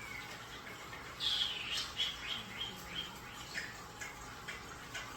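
Pet birds chirping: a louder call about a second in, then a run of short chirps about three a second, with scattered clicks.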